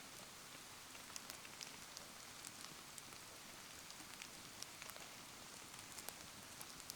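Faint, steady hiss of rain falling around a burning campfire, scattered with frequent small sharp ticks of raindrops and crackling wood.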